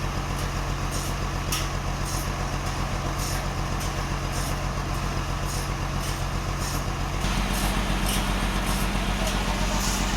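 Sawmill engine running steadily, its pitch stepping up and getting a little louder about seven seconds in.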